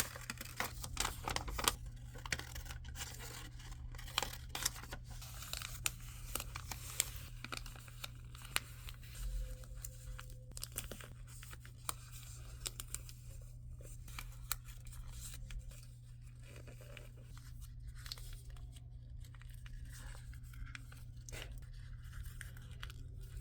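Sheet of paper being folded and creased by hand, crackling and rustling in short, irregular bursts that are denser in the first half, over a steady low hum.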